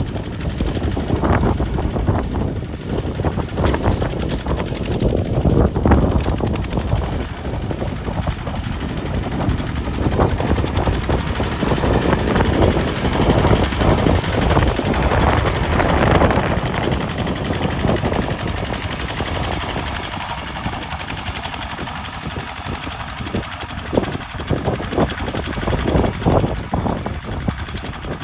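Kubota RT single-cylinder diesel engine on a walking tractor, running under load as it pulls a plow, with a fast knocking exhaust beat. Its level rises and falls throughout, with sharp clanks over it.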